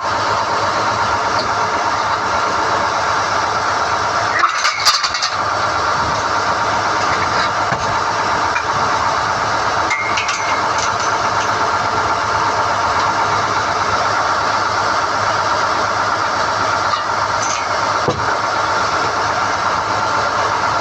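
Core-drilling rig running steadily while NQ drill rods are hoisted out of the hole, with a short burst of metallic clanks about four and a half seconds in and a few lighter knocks later.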